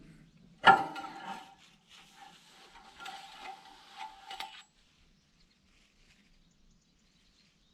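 A sharp metal clank that rings briefly about a second in, followed by a few seconds of lighter metal clinking and scraping as parts on the bulldozer are handled during an oil check, then it goes quiet with only a faint low hum.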